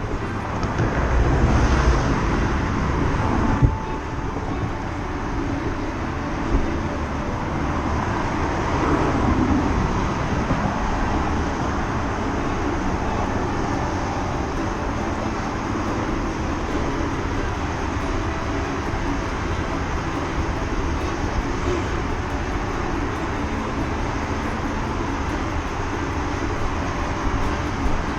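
Steady street traffic noise, with a short sharp knock a few seconds in.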